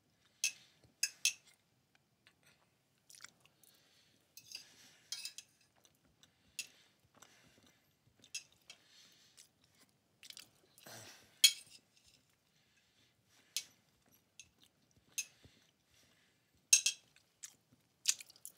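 A person chewing food close to a headset microphone: wet mouth clicks and smacks come at irregular intervals, with a louder cluster about eleven seconds in and again near the end.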